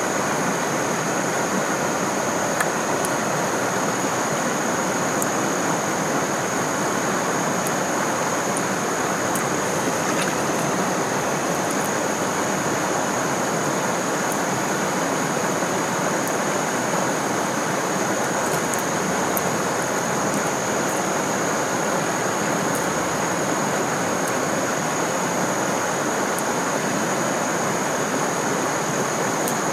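Stream water rushing below a waterfall, a steady unbroken rush. A thin steady high tone sits above it throughout, with a few faint clicks.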